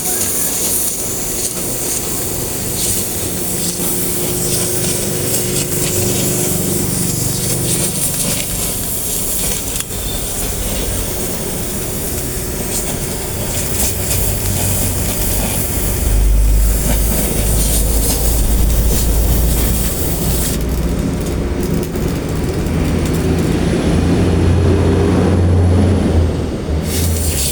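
Steel cutting and welding work on I-beams: a steady hissing noise over a low machine hum that swells twice, about halfway through and again near the end.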